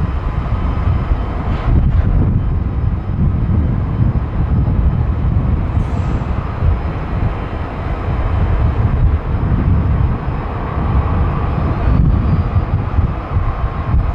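Boeing 787-10 airliner's jet engines on landing approach: a steady, loud low rumble with a faint high whine.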